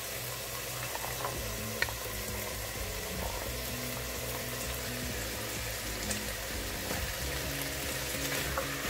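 Chicken and vegetables sizzling in oil in a stainless steel pot as the vegetables are tipped in and stirred with a wooden spatula. A single sharp tap just before two seconds in.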